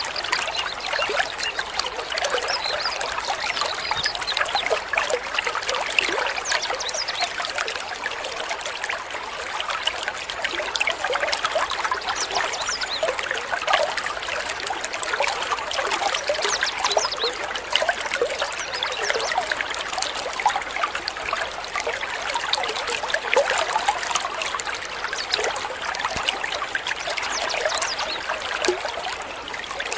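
Water trickling and babbling steadily, like a small stream.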